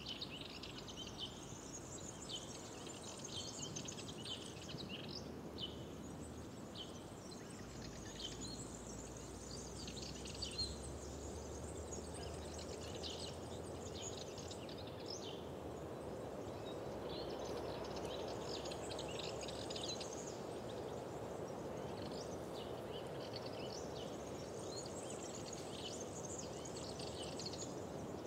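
Songbirds singing in bouts of quick high chirps and trills, with short pauses, over a steady low background rush that swells a little midway.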